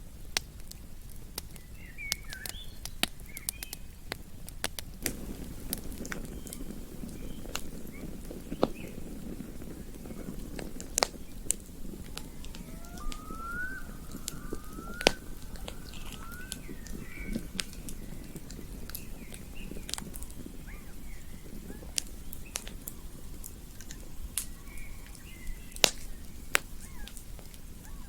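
Campfire crackling, with irregular sharp pops and snaps over a low rumble of the burning wood. About halfway through, a few short rising calls sound faintly, like a bird.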